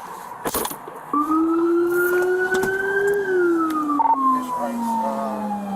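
Police car siren switched on about a second in, sounding a slow wail: rising for about two seconds, then falling steadily for nearly three.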